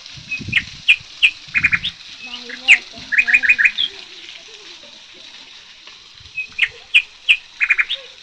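A small bird chirping: sharp chirps and quick runs of four notes, repeating the same phrase twice with a pause of a few seconds between. Dull low knocks sound under the first chirps.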